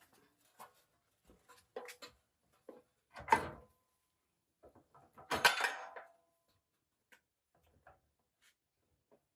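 Parts and tools being handled in a workshop: scattered light clicks and knocks, with two louder clanks about three and five and a half seconds in, each with a brief ring.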